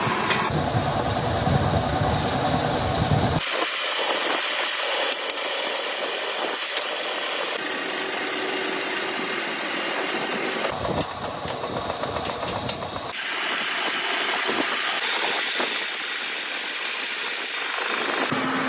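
Metalworking factory machine noise in several abruptly cut segments: steady hissing and humming machinery, with a run of sharp clicks about two-thirds of the way through.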